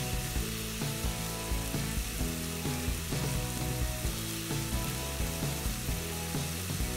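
Seasoned chicken breast pieces sizzling steadily in hot oil in a metal pan. They are left unstirred to sear and build up browned bits.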